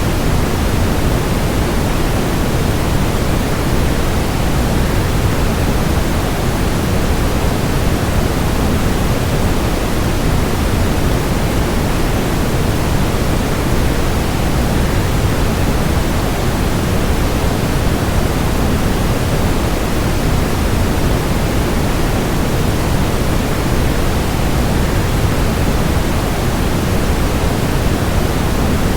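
Steady, unbroken rush of falling water from a waterfall, even throughout, with most of its weight in the low, deep end.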